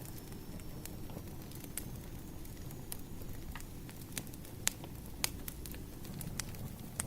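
Firewood burning: irregular sharp pops and snaps over a steady low rumble, with the loudest pops a little past halfway.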